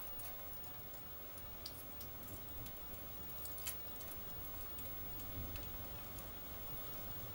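Steady rain falling, with scattered drops ticking close by; one sharper drop tick stands out a little past halfway. A low rumble sits underneath.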